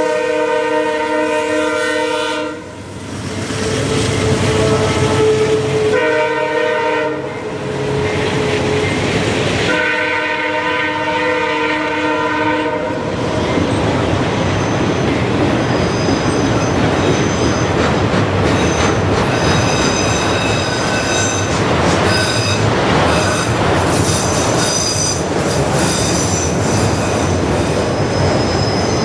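Diesel locomotive's air horn sounding several chord blasts, the last ending about halfway through, over the noise of a passing train. After that the train rolls by with a steady rumble and high-pitched wheel squeal.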